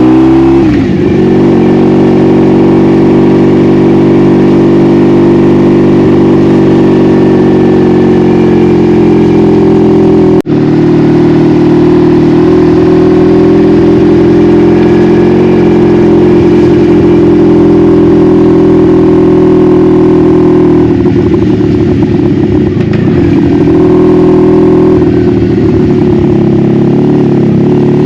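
1986 Honda Magna V45's 750 cc V4 engine heard onboard while riding, holding steady cruising revs after climbing in pitch just before; the sound breaks off for an instant about ten seconds in.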